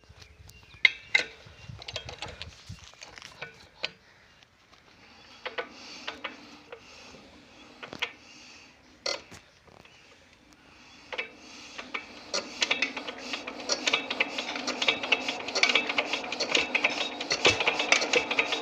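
Engine starting: scattered clicks and knocks, then a rapid mechanical clatter that sets in past the middle and grows louder as it runs.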